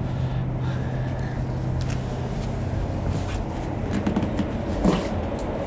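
A steady low mechanical hum, with a few faint clicks and knocks from tools being handled.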